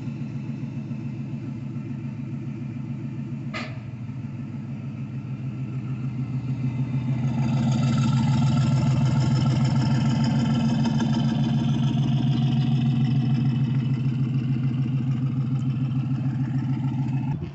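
Twin-turbo 6.0 LS V8 in a Fox-body Mustang idling with a steady, even pulse as the car creeps out of the garage. It grows louder from about six to eight seconds in as the car comes out, then holds steady.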